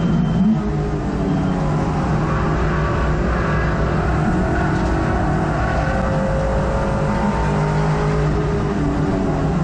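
Hot hatch race car engine heard from inside the cabin, running hard under racing load, its note rising and falling as the revs change, over loud road and wind noise.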